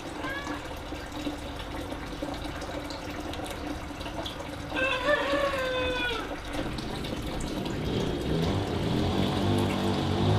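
Water running steadily. About five seconds in, a short call falls in pitch, and a low rumble builds toward the end.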